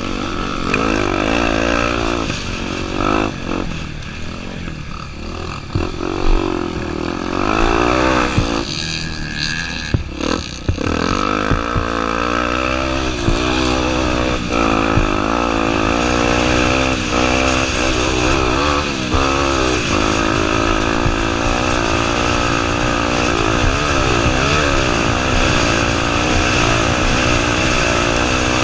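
Honda Tornado 250's single-cylinder four-stroke engine running as the motorcycle is ridden, revs rising and falling over and over, more uneven in the first ten seconds and steadier after that.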